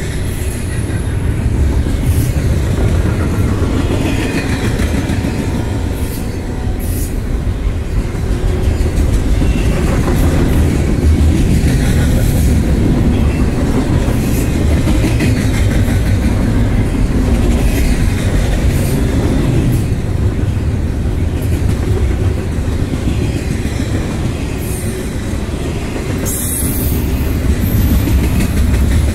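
Intermodal freight cars of a long train rolling past, a steady heavy rumble with wheels clicking over the rail joints.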